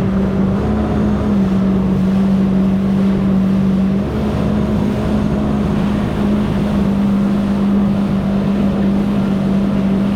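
Jet ski engine running with a steady drone, its pitch stepping slightly up and down a few times as the throttle shifts.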